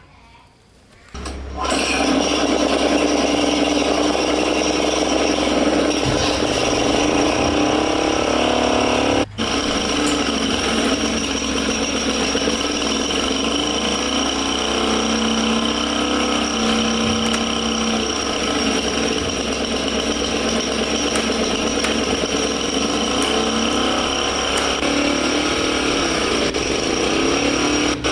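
Old diesel engine, freshly repaired, starting up about a second in and then running steadily at a constant speed, with a momentary drop-out about nine seconds in.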